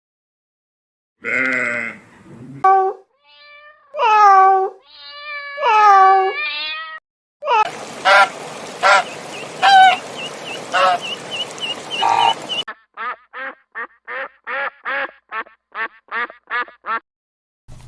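Farm animals calling in a string of short clips cut one after another, with ducks quacking among them. A noisier stretch of repeated calls comes in the middle, and a quick run of short calls, about three a second, near the end.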